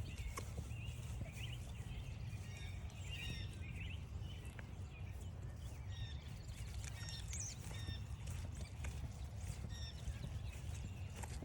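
Footsteps on a trail with small birds chirping, many short high calls repeated over and over, above a steady low rumble.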